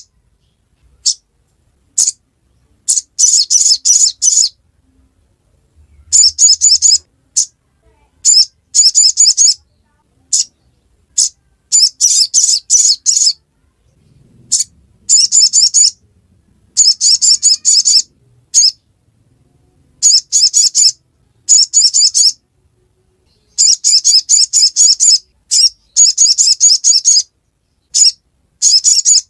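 Crimson sunbird (sogon) singing a high, rapid twittering 'ngriwik' chatter. The song comes in repeated bursts of a second or so, with brief pauses between them.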